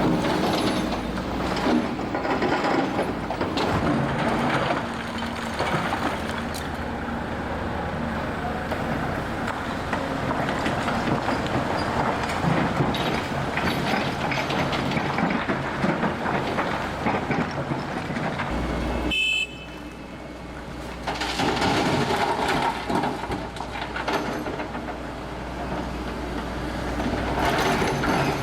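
Heavy demolition machinery tearing down a building: a steady engine rumble under continuous clattering and crashing of breaking masonry and debris. It eases off briefly about two-thirds of the way through, then picks up again.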